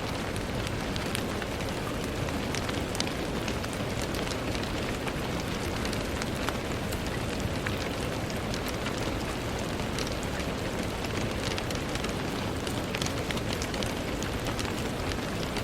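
Steady rain falling on a window: an even hiss dotted with many small, sharp ticks of single drops striking.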